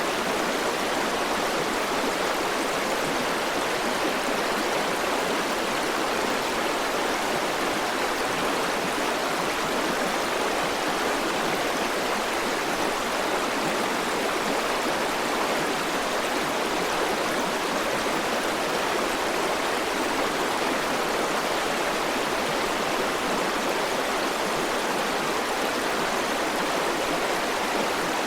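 River water rushing steadily, a continuous even splashing with no breaks or changes.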